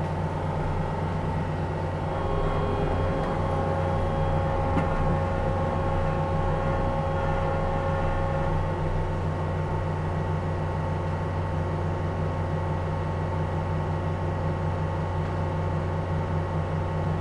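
Diesel engine of heavy excavation equipment running steadily. A higher steady whine sits on top of it from about two seconds in until past the middle.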